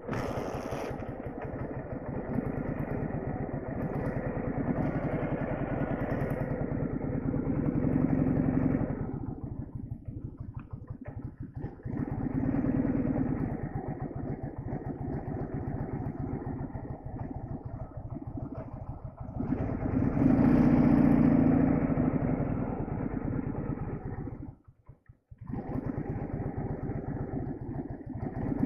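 Boxer-twin sidecar motorcycle engine running under load through snow, revving up and easing off several times, loudest about two-thirds of the way through. It briefly cuts out near the end and then resumes.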